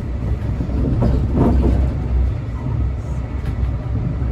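Steady low rumble of a Brightline passenger train running, heard from inside the car, with a brief louder swell about a second and a half in.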